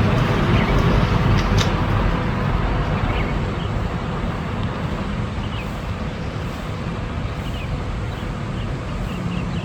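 Steady outdoor background rumble, like distant road traffic, with a few faint, short, high chirps.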